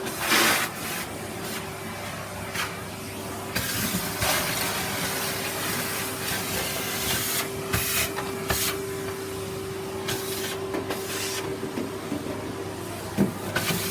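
Vacuum cleaner running steadily with a constant motor whine, with repeated surges of louder hissing as the nozzle is worked over the floor.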